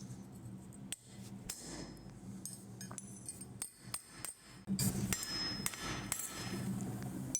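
Hammer blows on a punch being driven through a hot workpiece over a plate to finish a punched hole. A run of strikes at uneven spacing, roughly two a second, some leaving a short metallic ring.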